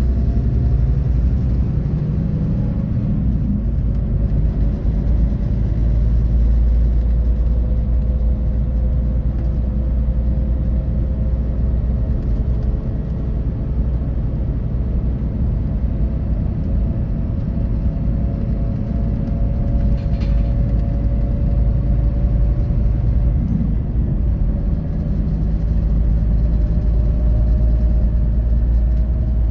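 Scania K450EB coach heard from inside while under way: a steady low rumble of engine and road noise, with a faint whine that rises slowly in pitch as it gathers speed. There is a single brief tick about twenty seconds in.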